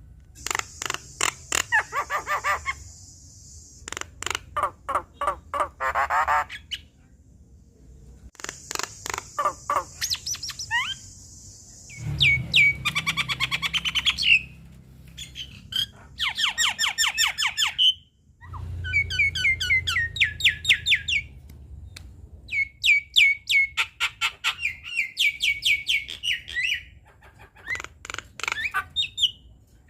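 Javan myna singing in full voice: phrases of rapid repeated notes and rattling squawks, broken by short pauses.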